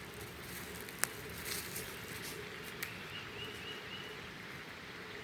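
Quiet outdoor ambience: a steady faint hiss, with one sharp click about a second in and a faint, repeated high chirp near the middle.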